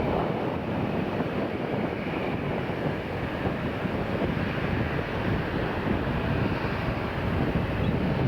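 Boeing 747-8's four GEnx jet engines running at a steady rumbling roar as the airliner departs, mixed with wind on the microphone.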